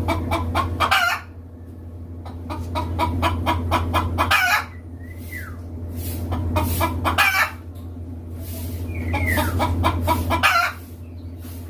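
A chicken cackling: four rounds of rapid clucks, each building up and ending in a longer, louder call, about every three seconds.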